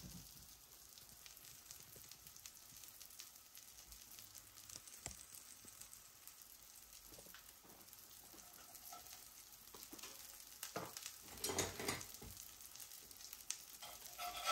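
Ground-beef patties sizzling faintly in a cast-iron skillet. Near the end a spatula scrapes and knocks against the pan a few times as it is slid under the patties to check them.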